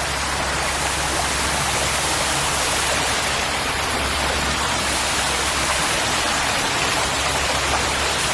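Fast-flowing stream water rushing over rocks, a steady even roar.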